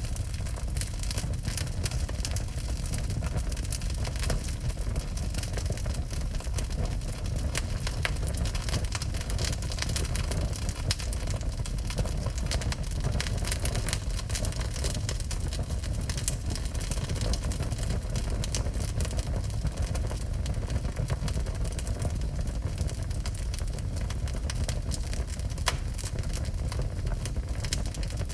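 Wood fire burning in a fireplace: many small sharp crackles and pops over a steady low rumble of the flames.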